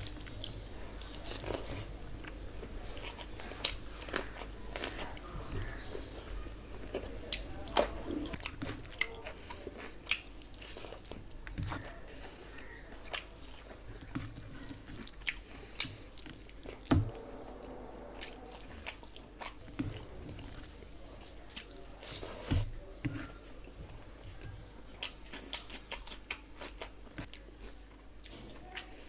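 A person chewing mouthfuls of rice and curry eaten by hand, close to the microphone, with many irregular sharp wet clicks and smacks of the mouth.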